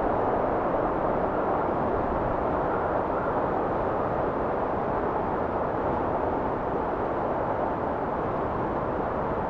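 Blizzard wind blowing as a steady, dense rushing noise, low and full with little hiss on top.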